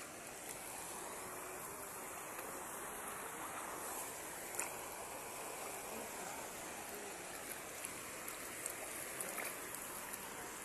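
Shallow seawater at low tide rushing and lapping steadily, with a single sharp click about four and a half seconds in.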